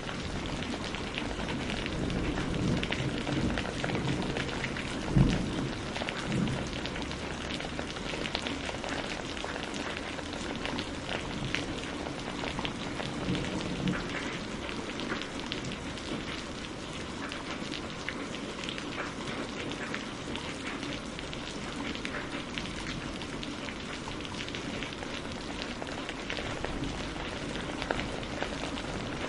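Steady rain falling, mixed with the scattered crackle and ticking of a wood fire burning. A single low thump comes about five seconds in.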